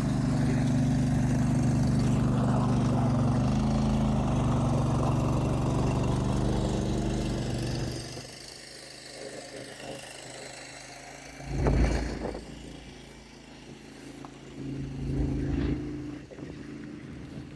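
Engine of a container-delivery truck and trailer running steadily, as it drives the hydraulics to unload a storage container, then dropping away about eight seconds in. A loud low thud comes about twelve seconds in.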